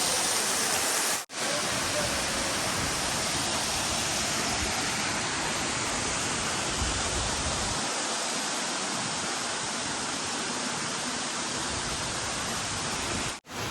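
Waterfall: a steady rush of falling water. It cuts out briefly about a second in and again just before the end.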